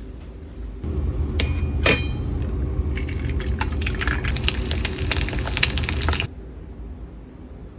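Dishes and cutlery clinking: many light clinks and taps over a steady low hum, starting suddenly about a second in and cutting off suddenly near the end.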